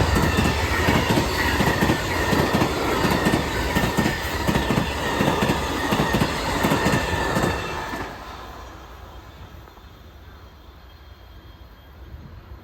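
Amtrak passenger train passing close by, its wheels clicking in a quick, even rhythm with a faint squeal. About eight seconds in the sound drops off sharply and fades as the train goes by.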